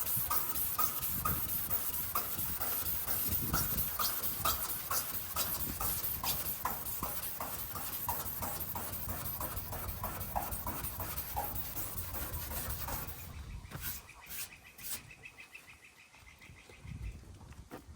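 Rhythmic hand rubbing on a painted truck body panel, about two rasping strokes a second, working the top paint off to uncover old lettering. The rubbing stops about thirteen seconds in, leaving a few faint clicks.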